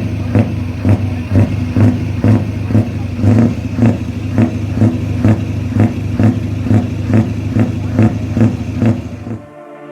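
Scania R500's V8 diesel engine running through an open exhaust, with an even pulse about twice a second. It cuts off suddenly near the end.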